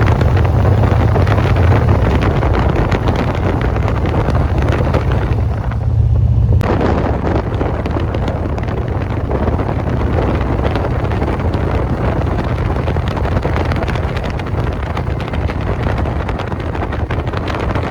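Wind buffeting the microphone over the steady rumble of a moving car. The deep rumble eases at a break about six and a half seconds in.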